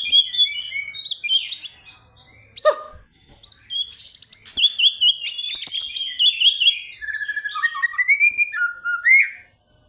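Caged songbird singing a fast, varied song of whistled phrases, sweeping notes and rapid chirps, with a brief pause about three seconds in.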